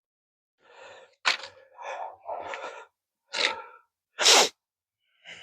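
A series of short rustling and handling noises with a sharp click about a second in and a louder, brief hiss-like burst near the end.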